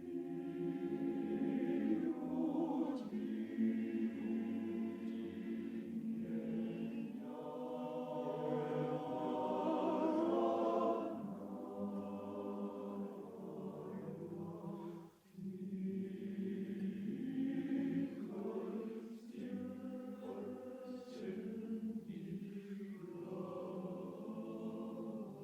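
Men's chorus singing a slow Russian song a cappella in full harmony, with sustained chords and a brief breath pause about 15 seconds in.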